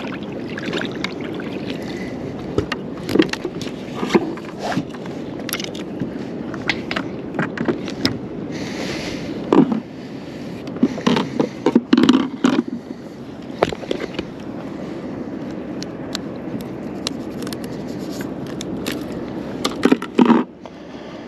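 Irregular knocks, clicks and scrapes of tackle and a fish being handled on a plastic fishing kayak, over a steady wash of water and wind.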